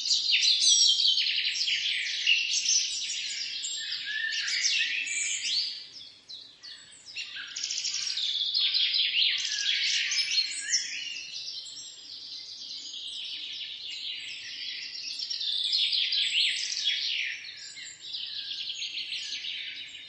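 Many small birds chirping and twittering at once, a dense chorus of rapid high chirps that thins briefly about six seconds in.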